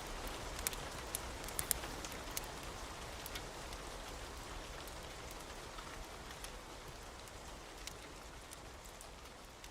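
Steady rain mixed with the scattered sharp pops of a crackling wood fire, the whole slowly fading down.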